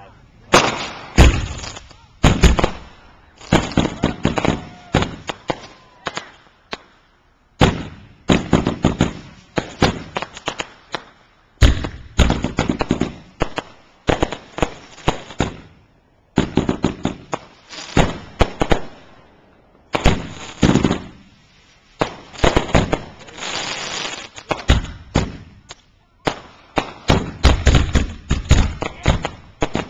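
Fireworks going off in rapid volleys of bangs and booms with crackling, in clusters a couple of seconds long separated by brief lulls.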